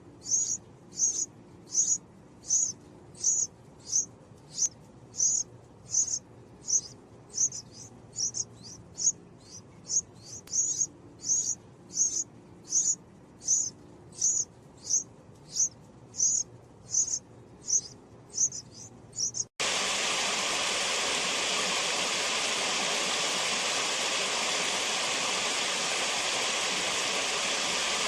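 Purple-crowned fairy hummingbird giving a series of high, thin single call notes, evenly spaced about one every 0.7 seconds. About two-thirds of the way through, the calls cut off abruptly and give way to a steady rushing hiss.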